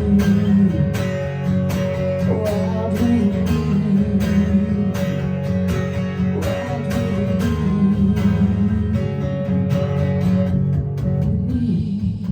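Live acoustic guitar strumming a rock song's chords in a steady rhythm of about two strums a second, with no singing.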